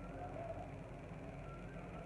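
Faint soft chirps from a pet cockatiel over a steady low background hum.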